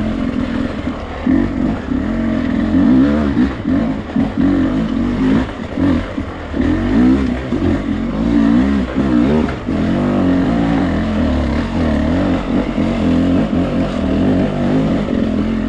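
Dirt bike engine running under constant throttle changes, its pitch rising and falling in quick revs as the bike is ridden over rough ground.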